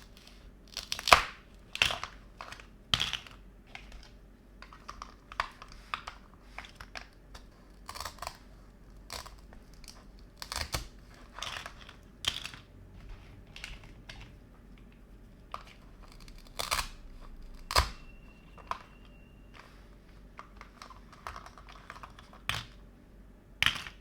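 Plastic rustling and crinkling with light clicks and taps, in short irregular bursts, from small plastic toy kitchen pieces and their packaging being handled.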